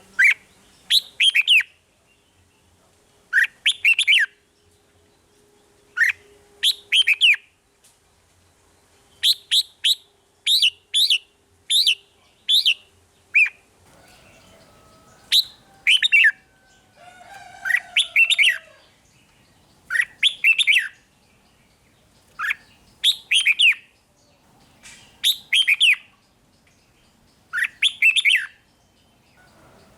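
Red-whiskered bulbul singing: short phrases of three or four quick, falling whistled notes, repeated every two to three seconds.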